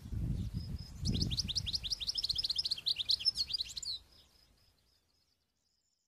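A bird giving a rapid, even series of short high chirps for about three seconds over a low background rumble, all cutting off about four seconds in.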